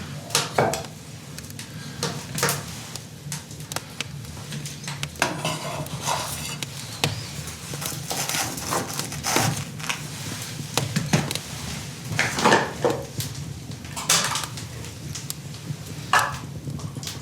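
Metal cookware and utensils clinking, knocking and scraping at irregular intervals, as in handling pots and cutlery while cooking.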